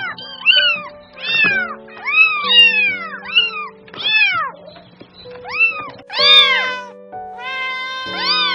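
Cat meowing repeatedly, about a dozen short meows that each rise and fall in pitch, over background music with held notes.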